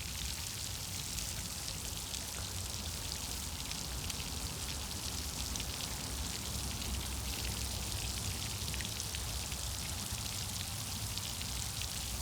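Steady outdoor background noise: a crackling hiss like light rain over a low, fluttering rumble.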